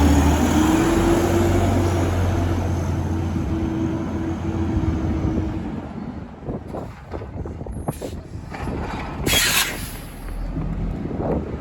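Garbage truck engine running at high revs, easing down over the first six seconds. It then drops to a low running sound with a few knocks and a short hiss of air about nine and a half seconds in, and picks up again near the end.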